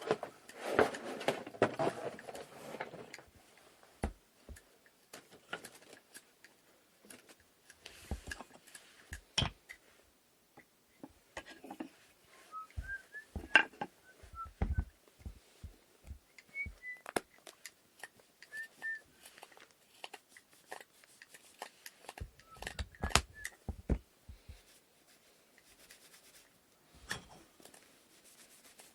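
Wooden inkle loom parts being handled and fitted together: scattered knocks and clicks of wood on wood, after a few seconds of rubbing at the start. A small bird chirps briefly several times in between.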